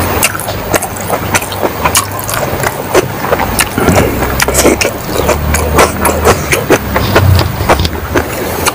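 Close-miked eating of egg curry and rice by hand: wet chewing and lip-smacking clicks, several a second and uneven, with the squish of rice worked between the fingers. A low rumble runs underneath.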